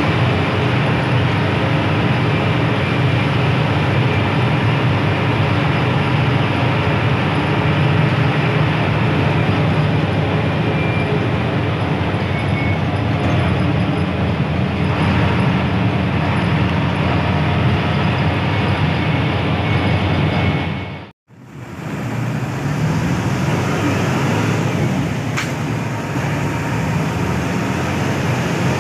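Hino AK8 bus with its front-mounted diesel engine running under way: a steady engine drone with road and tyre noise. The sound drops out for a moment about three quarters of the way through, then the same running noise carries on.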